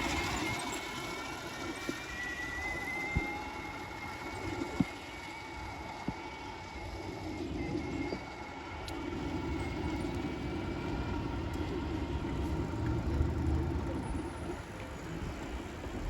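Road and traffic noise heard while riding a scooter: a steady rush with a thin high whine held through the first half, a few sharp clicks, and a heavier low rumble swelling in about nine seconds in.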